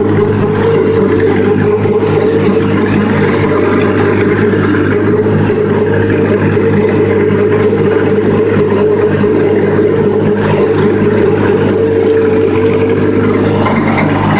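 Tractor engine running steadily at working speed, driving a rotary cutter (bush hog) through the grass.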